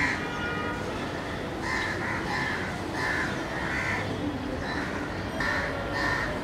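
A bird calling repeatedly in short notes, often in pairs about half a second apart, over steady background noise.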